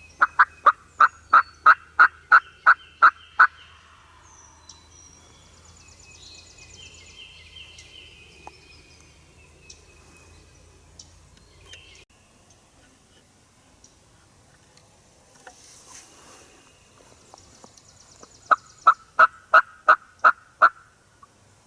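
Two series of loud turkey yelps, about four notes a second: about eleven right at the start, and about eight more near the end. Other birds sing faintly between the series.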